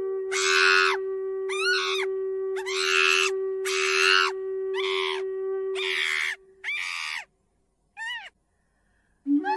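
An animal giving a run of eight short, shrill, screeching calls, about one a second, the last one fainter. Under the first six calls a soft flute-like music note is held, and it stops about two-thirds of the way in.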